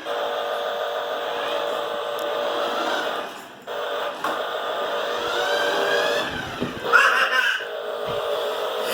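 Small electric drive motor and gears of a Fisca RC toy food truck whining as it runs, the pitch rising and falling with speed, cutting out briefly twice around the middle. A brief louder sound comes about seven seconds in.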